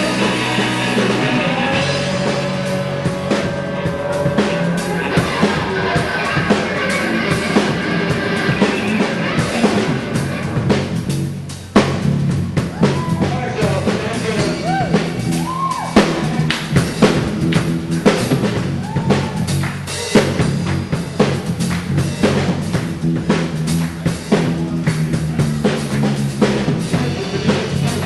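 Rock band playing live, the drum kit prominent, with a brief drop in the music about twelve seconds in before the drums come back in.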